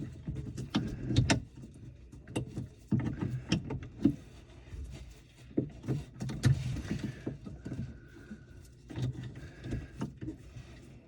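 Irregular knocks, clicks and rustling of handling noise, unevenly spaced and coming in clusters.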